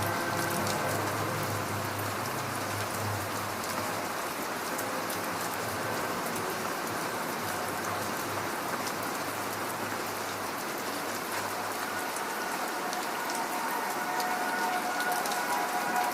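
Steady rain falling, with fine ticking of drops. Faint sustained synth tones linger underneath: a low hum fades out about twelve seconds in, and higher held tones come up near the end.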